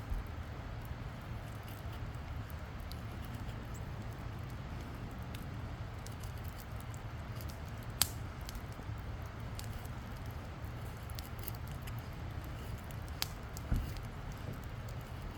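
Wood campfire burning, crackling with scattered small ticks and a few sharp pops, one about halfway through and two near the end.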